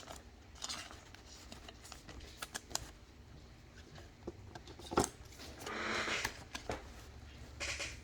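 Trading cards and foil pack wrappers being handled: scattered light clicks and short rustles, with a sharper click about five seconds in and a longer rustle just after it.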